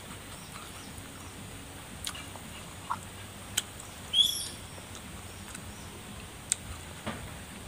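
Sparse, sharp mouth clicks and smacks from chewing sour green lime with chilli salt, over a steady background hiss. About four seconds in comes a short, high chirp, the loudest sound.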